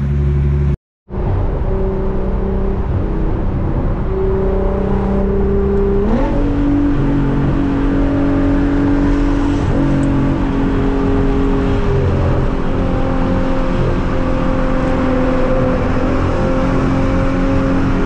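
Engine drone and road noise inside a Nissan GT-R's cabin at a steady highway cruise, with the engine note stepping up in pitch about six seconds in. The sound cuts out briefly about a second in.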